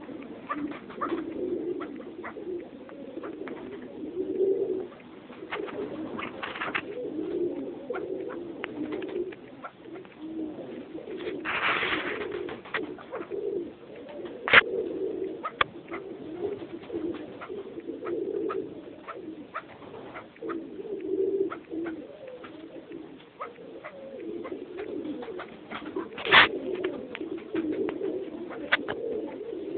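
Penned birds cooing steadily and low throughout. Two sharp knocks cut in, one about halfway through and a louder one near the end.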